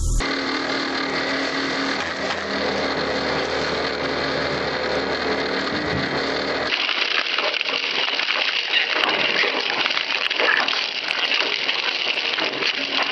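Heavy industrial machinery running: first a steady hum with several held tones, then, after a sudden change about 6.7 seconds in, a noisier, rougher run with irregular clatter.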